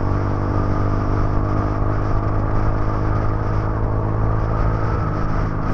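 Motorcycle engine running steadily on the move, with wind noise on the GoPro Hero 8 Black's microphone. The engine note shifts slightly near the end.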